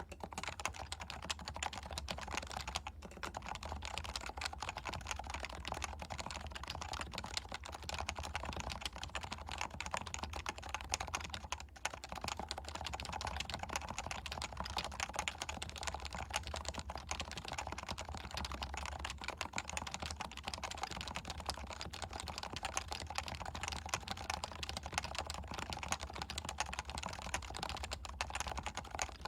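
Continuous typing on a Leopold FC660C keyboard with non-silenced 45 g Topre electrostatic capacitive switches, stock lubrication: a dense, steady run of keystrokes.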